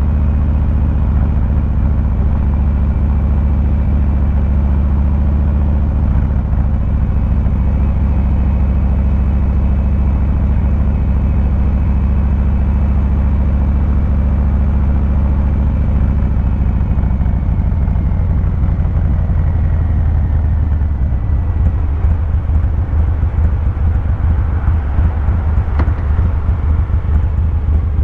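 2023 Harley-Davidson Fat Boy 114's Milwaukee-Eight 114 V-twin engine running through its exhaust while riding, with a steady low note. The note shifts a few times and grows more uneven near the end.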